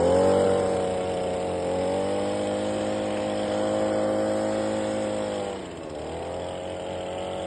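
Petrol pressure washer engine running steadily at speed. About six seconds in its pitch sags briefly and then recovers.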